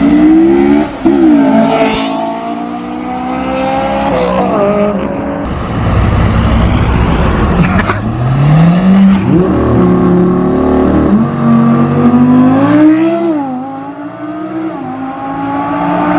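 Audi R8 engine accelerating hard in a launch, its pitch climbing and then dropping sharply at gear changes, several times over.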